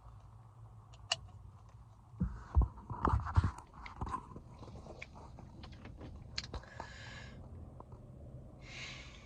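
Plastic soda bottle of Peeps-flavoured Pepsi being handled and its screw cap twisted open: a cluster of loud crackles and clicks about two seconds in, scattered clicks after, then two short rushes of noise near the end.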